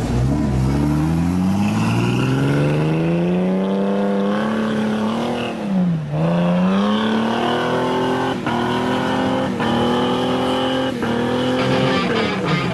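Car engine accelerating: its pitch climbs steadily for about three seconds and holds. It drops sharply about six seconds in, as at a gear change, then climbs again in small steps.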